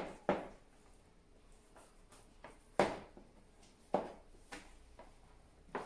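About six short knocks and taps, scattered and irregular, from handling a container as the pizza dough is taken out of it.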